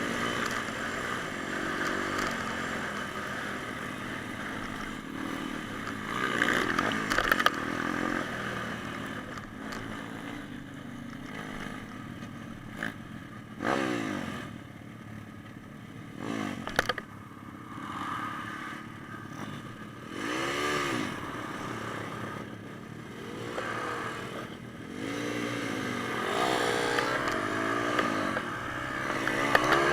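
Pit bike engines running and revving, the pitch swelling up and dropping back several times, with a few sharp clacks.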